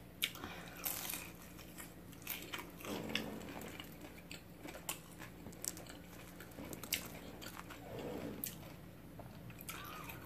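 Close-up chewing and crunching of a deep-fried egg roll: bites into the crisp wrapper give irregular sharp crunches between quieter chewing.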